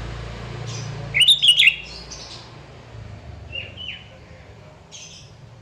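Sooty-headed bulbul calling: a loud burst of rapid, bubbly notes about a second in, followed by a few scattered short chirps, some sliding downward.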